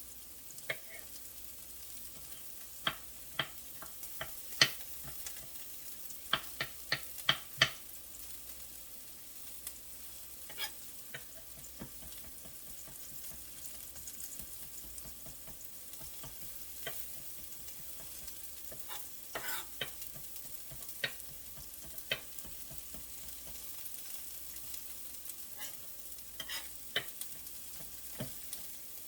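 Onions and peppers sizzling steadily in a frying pan, with sharp knife taps on a cutting board as a garlic clove is chopped. The taps come in scattered runs, the quickest and loudest about six to eight seconds in.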